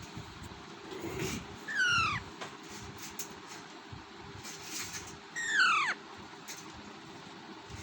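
Indian ringneck parakeet giving two calls about three and a half seconds apart, each a short call that falls steeply in pitch over about half a second.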